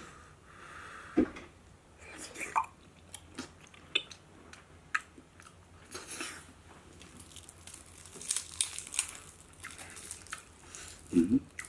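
Close-up eating sounds: a person peeling eggshell off a tea egg near the start, then biting and chewing the egg, with many small clicks and wet mouth noises.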